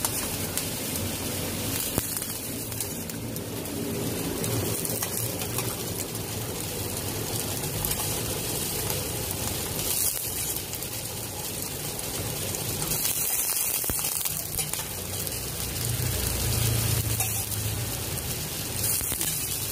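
Parboiled lamb pieces sizzling steadily in a pan of frying curry paste.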